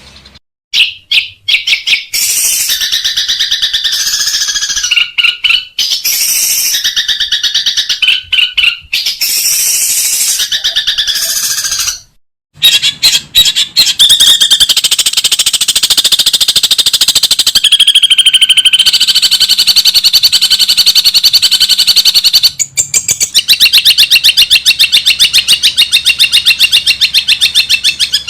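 Long-tailed shrike (cendet) singing loud, rapid-fire chattering phrases, broken by a short pause near the middle, then a long unbroken run of fast repeated notes.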